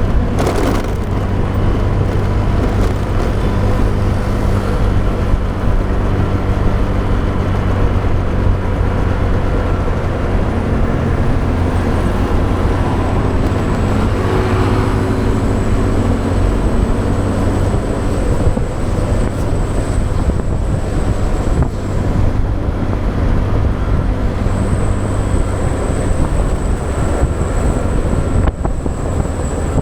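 Riding a motorbike through city traffic: a steady low rush of wind on the microphone over the bike's engine drone, with other vehicles passing, one of them most clearly about halfway through. A thin high whine runs through the second half, dropping out briefly about two-thirds of the way in.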